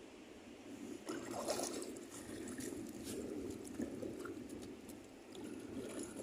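Shallow seawater splashing and sloshing unevenly as a dog paws around in it, loudest about a second and a half in.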